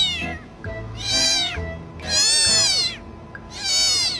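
A domestic cat meowing three times, each meow rising and then falling in pitch, over background music.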